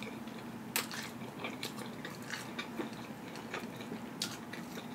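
A person chewing a mouthful of food, with irregular wet clicking mouth sounds, the sharpest about a second in and another near the end.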